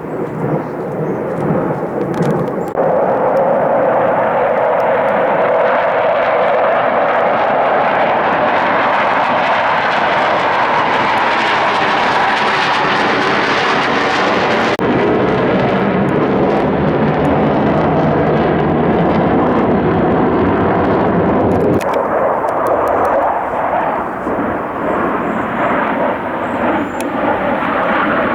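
Jet aircraft flying overhead, the noise of their engines loud and continuous, changing abruptly about 3, 15 and 22 seconds in.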